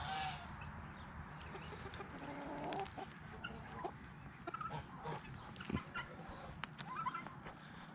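Chickens clucking softly, with short faint calls and scattered small clicks.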